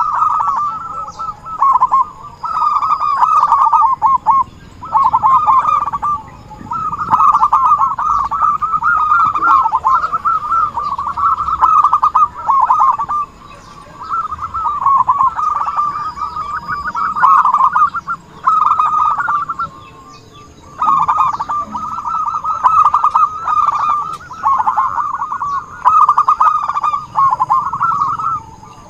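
Zebra doves (perkutut) cooing: phrases of rapid, trilled coos a few seconds long, one after another with short pauses between. This is the dove call played as a lure to attract other perkutut.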